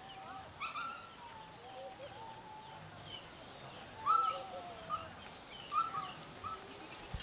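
Several birds calling: short whistled notes and chirps, some held briefly and stepping in pitch, the loudest about four seconds in, over a faint steady high tone.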